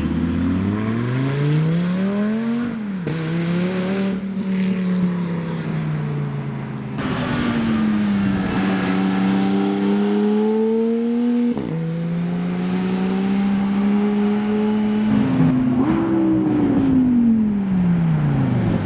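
A supercar engine revving and pulling away, its pitch climbing and then dropping sharply twice, as at gear changes, before falling away near the end.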